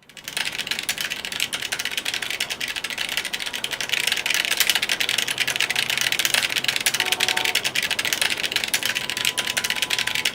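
Rapid, continuous clatter of computer keyboard keys being pecked by a small bird, many clicks a second, a little louder after about four seconds.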